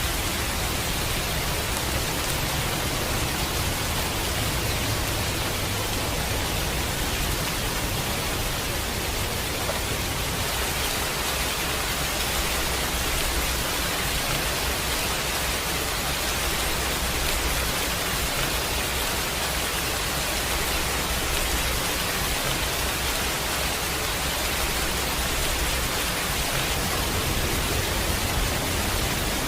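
Steady heavy rain, an even hiss with no breaks, over a low rumble that swells and fades over several seconds.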